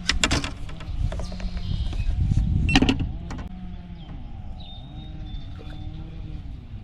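Spinning fishing reel being cranked with a wavering whir while a crappie is reeled in, over a low rumble of wind on the microphone; a sharp click about three seconds in.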